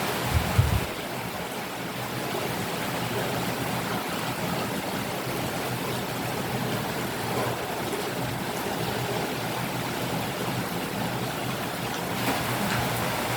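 Steady rain hiss. A short low thump comes about half a second in.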